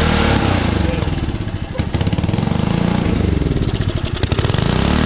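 Mini bike's small gasoline engine running, revved up and down repeatedly with a fast popping exhaust beat.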